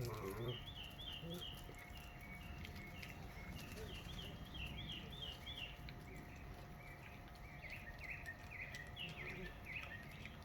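A songbird singing in the background, repeating quick phrases of three or four short chirping notes, with faint scattered clicks under it.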